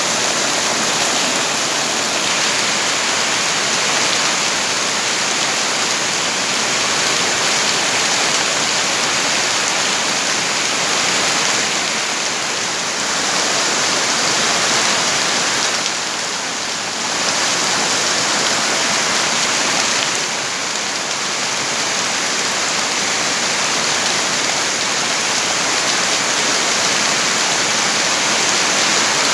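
Steady rain falling, a dense even hiss that eases briefly a little past the middle.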